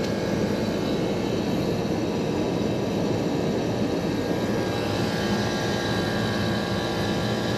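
Rooftop air-conditioning unit running with only one of its two compressors on: a steady mechanical hum with faint steady tones, unchanging throughout.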